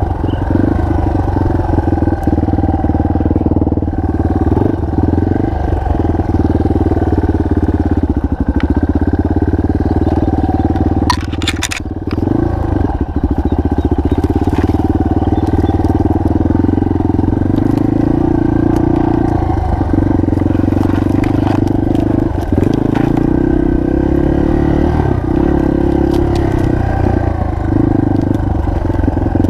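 Single-cylinder four-stroke enduro motorcycle engine running under way, the revs rising and falling. A short clatter about eleven seconds in.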